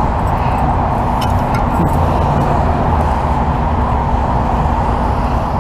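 Steady vehicle engine and roadway noise, a constant low engine hum under a dense rush, with a couple of faint clicks about a second in.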